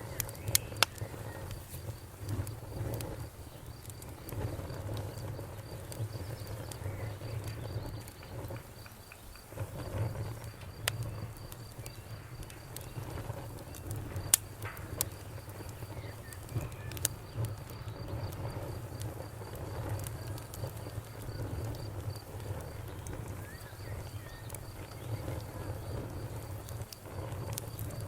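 Wood campfire crackling, with sharp pops scattered throughout over a steady low rumble. A cricket chirps in a fast, even pulse, and a few faint bird chirps come and go.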